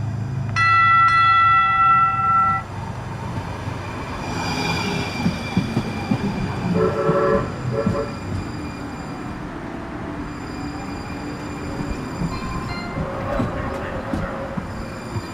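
Locomotive air horn sounds one loud blast of about two seconds, a chord of several notes, starting about half a second in. The train then rolls on with steady wheel and rail noise and scattered knocks.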